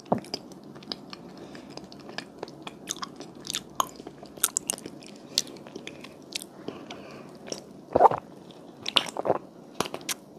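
Close-miked chewing of a soft strawberry mochi: a steady run of small wet clicks and smacks. About eight and nine seconds in, two louder swallows come as a drink is sipped from a glass.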